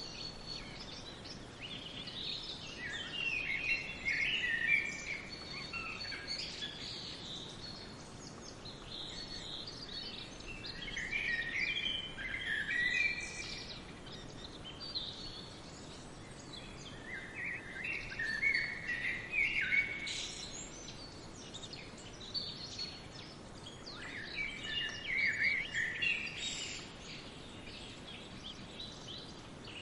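Songbirds chirping in several bouts of a few seconds each, with quieter gaps between, over a steady background hiss.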